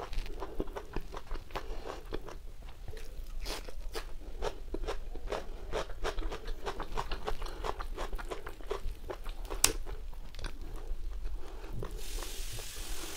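Chewing and biting of whole roasted chicken: a quick run of crunches and clicks, with one sharper click about ten seconds in. A steady hiss comes in near the end.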